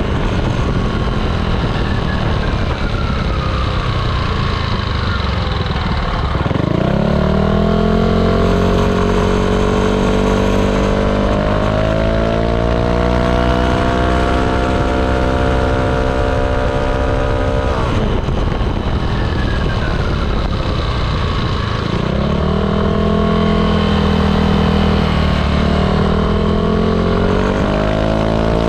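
Yamaha Aerox 155 scooter's single-cylinder engine through an aftermarket ROB1 exhaust, ridden under throttle. The revs fall away at first, rise sharply about six seconds in and stay high as the CVT pulls. They drop again about eighteen seconds in and climb back a few seconds later.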